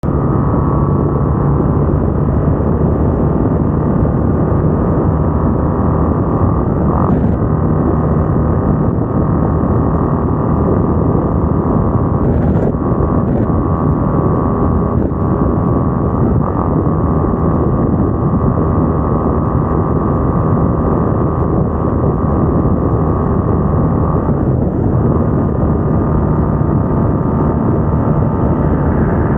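Vehicle on the move at road speed: a steady engine drone under a constant rush of wind and road noise, with a few faint ticks.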